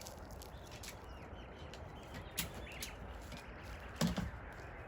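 Quiet outdoor ambience with faint bird chirps and two sharp clicks, about two and a half and four seconds in, the second one louder.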